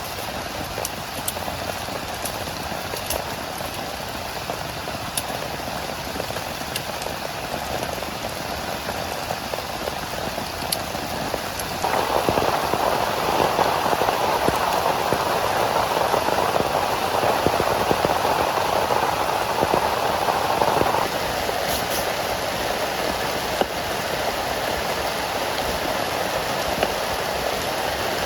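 Heavy rain falling steadily, with scattered sharp drop ticks. About twelve seconds in it turns suddenly louder and fuller for some nine seconds, then drops back to its earlier level.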